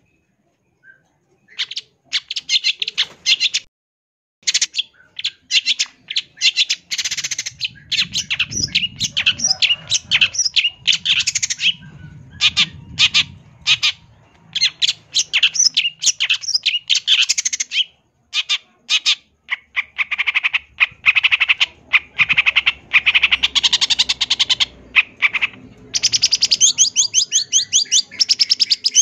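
Long-tailed shrike (cendet) singing a fast, harsh, chattering song of rapid short notes, a competition-style song packed with mimicked phrases. It starts about a second and a half in, with brief pauses, and becomes almost continuous near the end.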